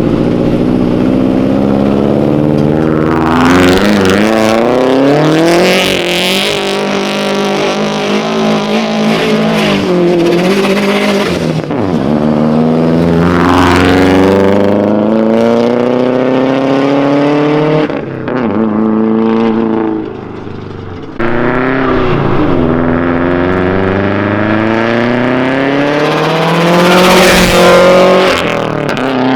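Turbocharged Subaru WRX with a catless Tomei exhaust accelerating hard through several gears. The engine note rises on each pull and drops back at the shifts, with a short quieter lull about two-thirds of the way through.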